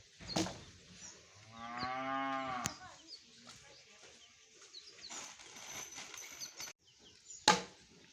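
A cow mooing once, a single call of about a second that rises and falls in pitch. Sharp knocks come shortly before the call, and a louder one near the end.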